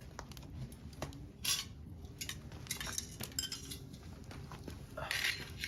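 Metal gear being handled and fitted together: scattered light clinks and clanks, with two brief scraping rustles, about a second and a half in and near the end.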